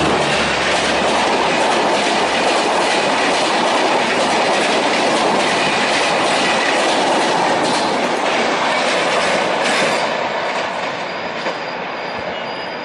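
Passenger coaches of an Indian express train rushing past at speed: a loud, steady roar of steel wheels on rail with a clickety-clack. About ten seconds in the sound drops off and gets quieter.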